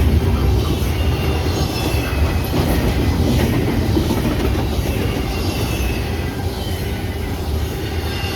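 Freight train rolling past: a steady rumble of wheels on rail, with faint high-pitched wheel squeal drifting in and out.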